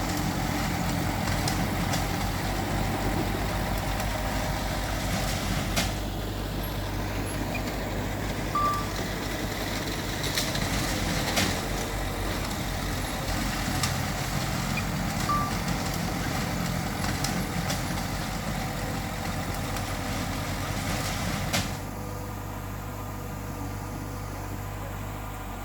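Heavy earthmoving machinery's diesel engine running steadily, with a few sharp knocks. It turns quieter about 22 seconds in.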